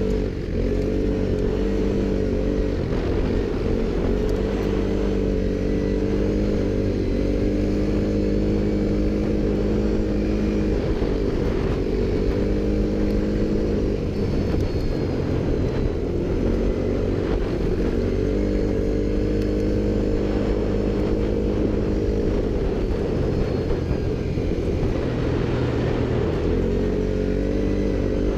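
ATV engine running as the quad is ridden, its pitch rising and falling again and again with the throttle.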